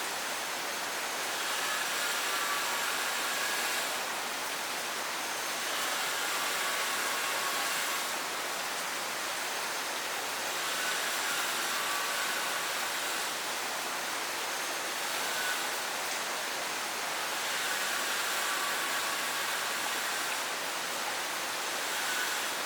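Steady rain falling, an even hiss with gentle swells in loudness. Faint brief tones come and go every few seconds above it.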